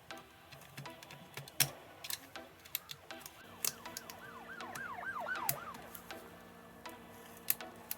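Scattered sharp clicks and taps of tools and small laptop parts being handled during a laptop teardown, with a quick run of about eight high warbling chirps a little before the middle.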